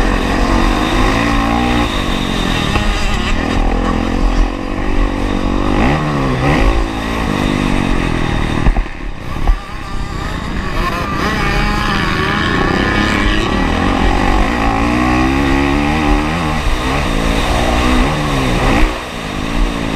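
Honda CRF450R's single-cylinder four-stroke engine revving hard, its pitch rising and falling again and again as the throttle is worked through the gears. The throttle is briefly cut about nine seconds in and again near the end.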